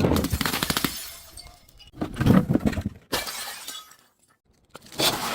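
Glass bottles shattering: four crashes about a second apart, each trailing off in crackling fragments, with a short pause before the last.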